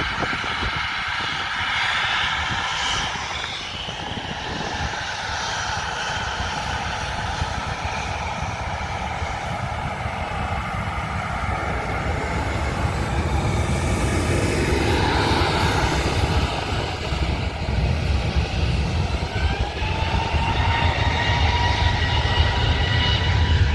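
Jet airliner engines running, with a rising whine and growing low rumble in the last few seconds as an easyJet Airbus A320neo spools up for its takeoff roll.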